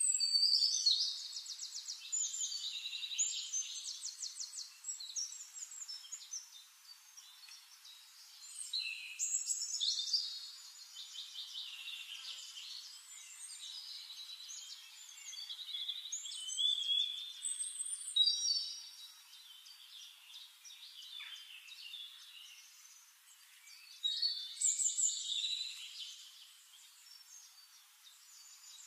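Birds singing in repeated bursts of rapid trilled and whistled phrases: the loudest come at the very start, about a third of the way in, a little past halfway, and again near the end.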